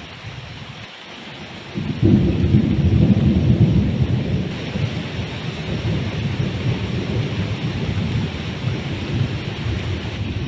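Heavy jungle rain falling steadily. About two seconds in, thunder breaks suddenly and loudly, then rolls on, slowly easing, under the rain.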